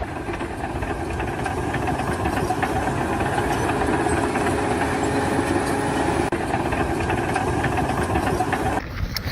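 An engine running steadily with a low, even drone, cut off abruptly shortly before the end.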